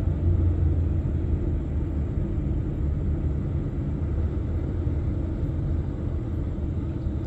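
Steady low drone of a truck's diesel engine heard from inside the cab while crawling in a traffic jam.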